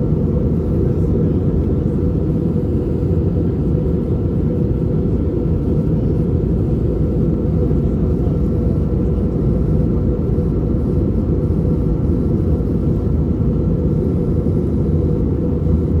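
Steady cabin rumble of an Airbus A320neo with CFM LEAP-1A26 engines in flight, heard from a rear economy seat, with a faint steady whine above the rumble.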